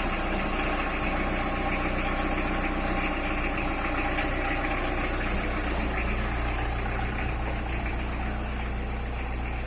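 Car engine running steadily at idle, a constant low hum.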